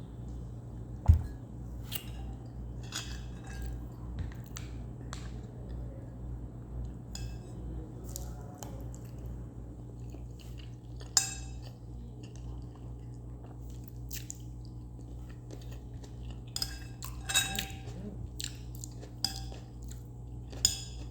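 Close-up eating sounds: cutlery clinking and scraping on a plate, with chewing between. A loud knock about a second in and a few sharper clinks later, over a steady low hum.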